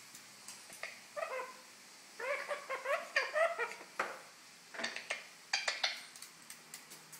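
Golden conure making short chattering, gurgling calls in two bursts, the second one longer, followed by a run of sharp clicks and taps.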